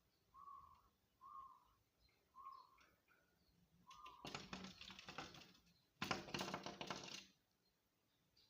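A fledgling bird chirping, about five short calls, then two spells of rapid tapping and fluttering, the second louder, as it tries to get in at a window.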